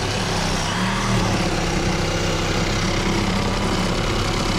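A motor running steadily: a low, even hum with a noisy edge.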